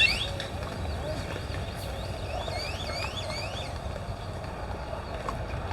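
A bird calling in a series of quick rising whistles, four in a row about two to three seconds in, after a burst of whistles at the start, over a steady low rumble.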